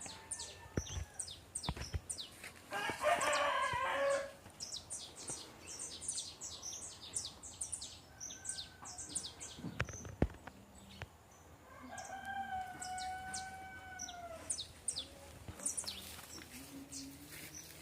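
Rooster crowing once, a long held call that falls away at the end, about twelve seconds in, over steady quick high chirps of small birds. A louder harsh call comes about three seconds in.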